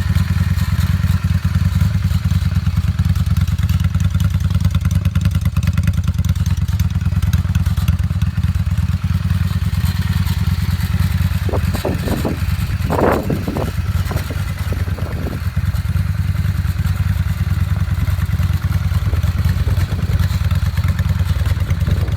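1995 Honda Shadow VT600's carburetted V-twin idling steadily through an exhaust with the dB killer baffle removed. A few brief higher-pitched sounds come in about twelve to fourteen seconds in.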